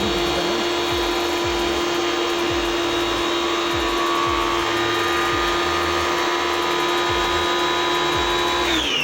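Tecna electric pressure washer running steadily with a high, even whine while spraying soap; near the end its motor shuts off and winds down, the pitch falling away.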